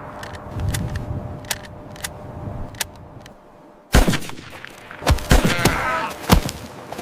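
Loud sharp bangs: one about four seconds in and three more close together near the end, after a run of small scattered cracks.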